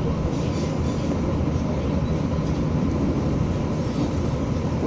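Materfer CM-2503 diesel railcar running along the track: a steady rumble of engine and wheels on rail that does not change.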